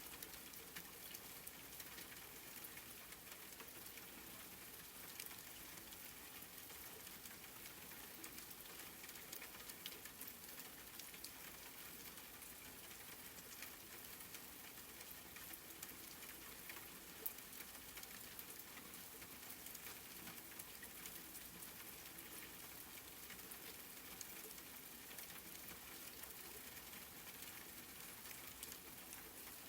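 Faint, steady rain: an even hiss sprinkled with many small drop ticks, one tick a little louder about 17 seconds in.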